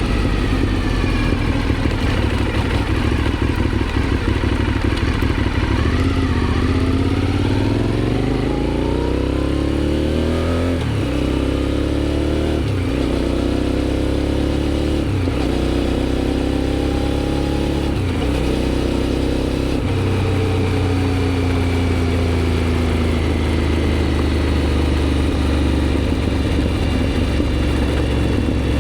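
Aprilia Shiver 750's V-twin engine through a GPR exhaust, ridden on the road. It slows at first, then accelerates through several upshifts, the pitch climbing and dropping back at each shift about every two seconds, then settles into a steady cruise that eases off near the end.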